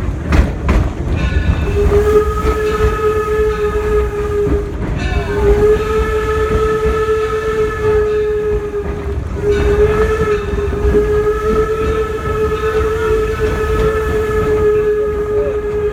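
Steam whistle of the 1873 steam locomotive Torch Lake blowing a long, steady note in three blasts separated by two brief gaps, over the low rumble of the train running on the rails.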